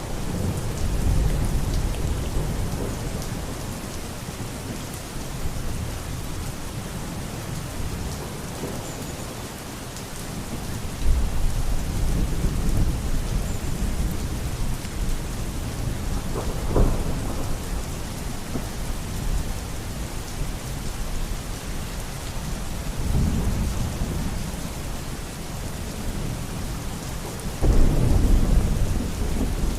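Steady heavy rain with thunder rumbling low several times, one sharper clap about halfway through and a loud rumble near the end.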